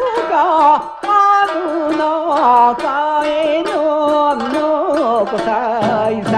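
Recording of a Japanese min'yō folk song: a male singer's ornamented, wavering melody over traditional instrumental accompaniment.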